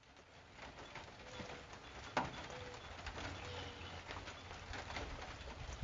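Dove cooing faintly: a series of short, low coos over quiet outdoor background, with one sharp click about two seconds in.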